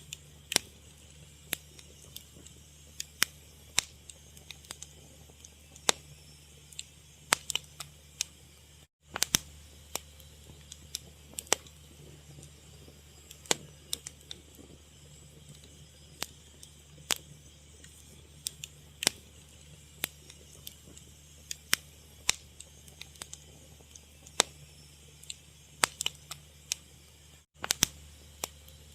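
Fire crackling, with irregular sharp pops and snaps over a low steady rumble. There are two brief cut-outs to silence, about nine seconds in and near the end.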